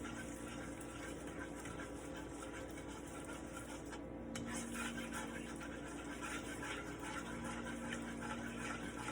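Butter melting in a pan on the stove while a utensil stirs and scrapes it, with faint light clinks. A steady low hum sits under it throughout.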